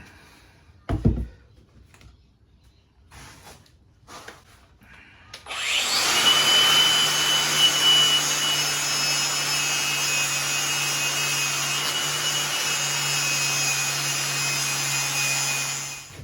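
A thump about a second in. Then, about five and a half seconds in, an angle grinder with a wire wheel starts and runs steadily: a high whine over a harsh scraping as the wire wheel scrubs rust and paint off an aluminium dirt-bike part. It winds down just before the end.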